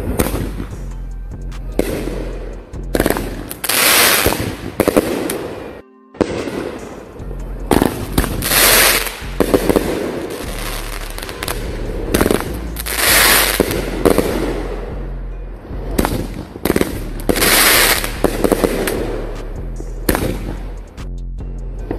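Fireworks going off: hissing bursts about a second long every four to five seconds, with sharp pops and crackling in between, over background music. The sound cuts out briefly about six seconds in.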